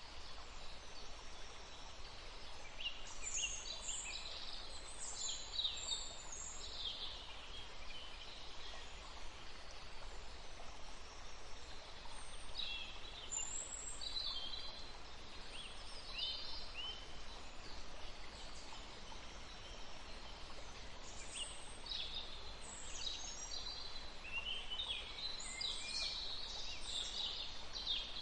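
Songbirds singing in bursts of quick high chirps and trills over the steady rush of a forest stream.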